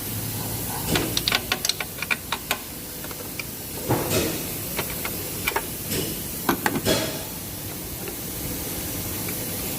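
Clinks and clicks of metal hand tools being handled, with a cluster of quick clicks early, a few more in the middle, and a steady hiss underneath; these are the sounds of a deep socket being fetched for the ECU mounting nuts.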